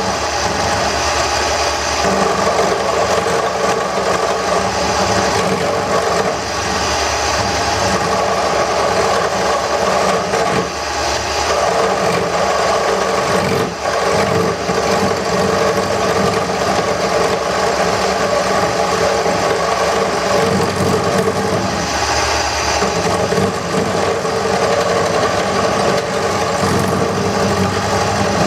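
Wood lathe motor running steadily with a constant hum while a turning gouge cuts the spinning wooden handle blank, the hiss of the cut swelling and fading as passes come and go.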